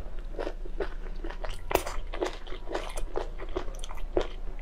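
Crunchy biting and chewing of chili-dressed pig ear, with irregular crisp crunches several times a second.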